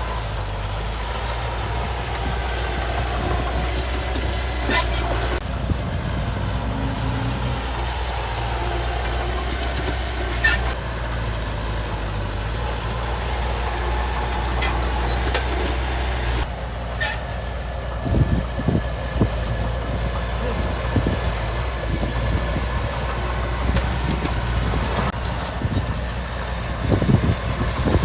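Heavy diesel earthmoving machinery running steadily, with a few sharp metallic clicks, and irregular clattering and rumbling through the second half as it works.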